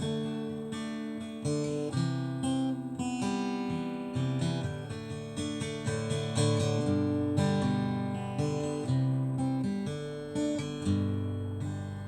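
Acoustic guitar strumming and picking chords, with a fresh chord or note attack every fraction of a second and no singing.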